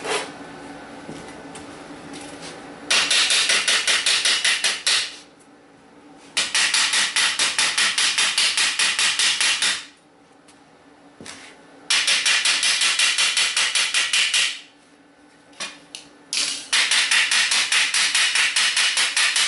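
Rapid metal-on-metal hammering on thin steel angle iron, in four bursts of a few seconds each, about ten strikes a second.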